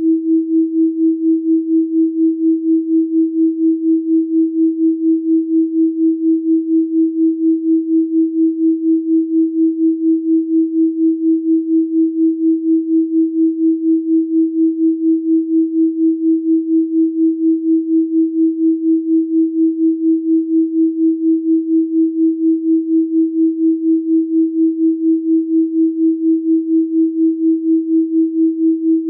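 A steady, electronically generated pure tone at 324 Hz, its loudness pulsing evenly about three times a second.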